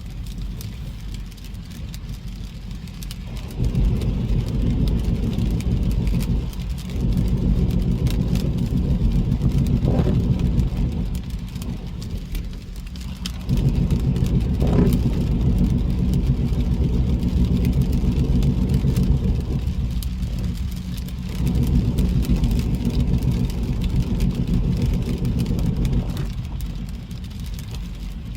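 Car driving in the rain, heard from inside: a low road and engine rumble that gets louder about three seconds in, eases briefly a few times, and drops back near the end, with faint scattered ticks of rain on the car.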